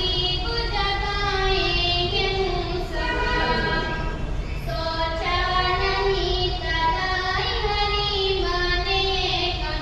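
A high voice singing a naat, an Islamic devotional song, in long held, ornamented melodic lines.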